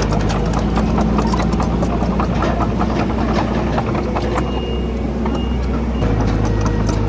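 Komatsu D31PX bulldozer's diesel engine running steadily, with rapid clanks and knocks from the machine at work. The engine note shifts near the end.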